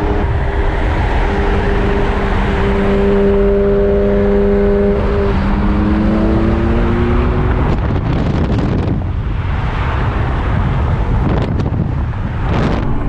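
Car engines running, with a steady engine note that rises as one accelerates, then two loud rushing surges of noise, like cars going past, toward the end.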